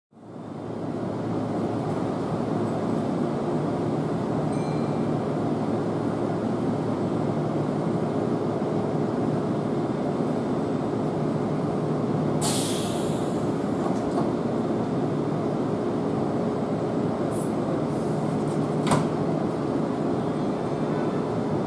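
Kintetsu 21000 series Urban Liner Plus limited express standing at the platform, its onboard equipment giving a steady hum. A short hiss of released air comes about twelve seconds in, and a sharp click near the end.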